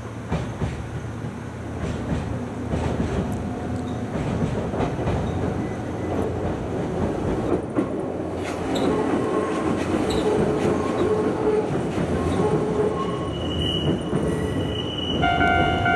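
Nankai commuter electric train rolling over a concrete viaduct: a steady rumble of wheels on rail that grows louder as it approaches. A sustained whine and then a higher squeal sound as it passes, and near the end a steady ringing tone starts.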